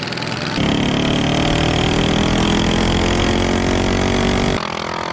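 Small engines of a three-engine drag mini bike running hard at high revs. They get louder suddenly about half a second in and drop off abruptly near the end.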